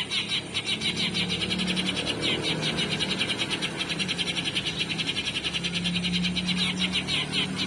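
Eurasian tree sparrow chirping played as a lure call from an MP3 speaker: a rapid, unbroken stream of high chirps, with a low hum underneath.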